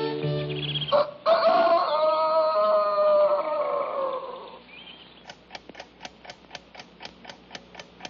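Cartoon soundtrack: orchestral music stops about a second in and a rooster crows once, a call of about three seconds that sinks in pitch at the end. After it comes a run of sharp, evenly spaced ticks, about four a second, quieter than the crow.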